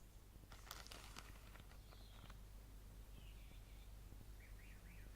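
Near silence over a low hum: a few faint clicks and rustles in the first two seconds, then several faint short bird chirps.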